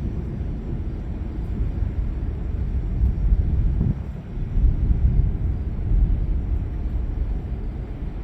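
Thunder rumbling, low and continuous, swelling about three seconds in and again a little later.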